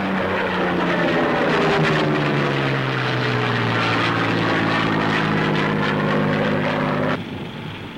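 Propeller aircraft engines droning loudly, the pitch falling as a plane passes, then cutting off abruptly about seven seconds in.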